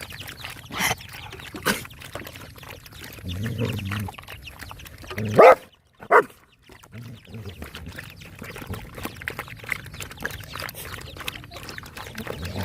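Dogs feeding, with many small wet chewing and smacking clicks, a low grunt about three seconds in, and a few short sharp cries, the loudest about five and a half seconds in.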